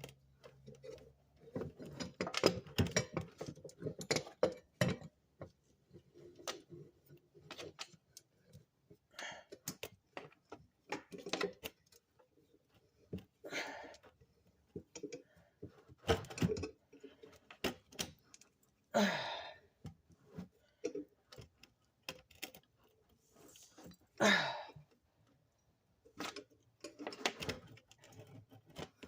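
Metal hand tools and brake parts clinking and knocking irregularly while a brake caliper's pistons are pushed back with a C-clamp, with a few longer scraping sounds.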